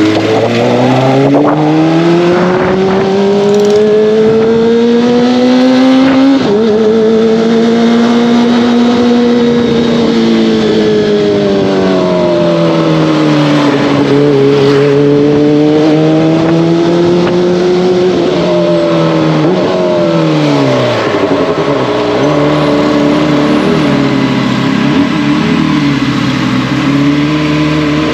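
Kawasaki ZX-25R inline-four motorcycle engine and exhaust under way, with road noise. The revs climb over the first few seconds, ease off and rise again in long swells, then fall away about two-thirds through to a low, steady note with a couple of short blips.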